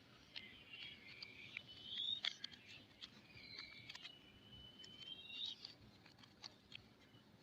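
Packaging being handled as soap is unwrapped: faint crinkling and scratching with scattered sharp ticks, and a couple of brief squeaks about two seconds in and again around four to five seconds in.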